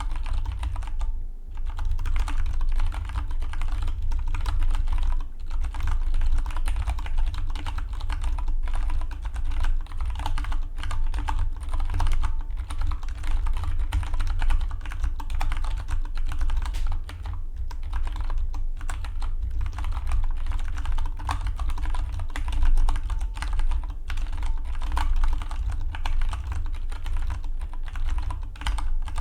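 Fast, continuous typing on a Dygma Defy split mechanical keyboard: a dense run of key clacks with a short pause about a second in, over a steady low hum.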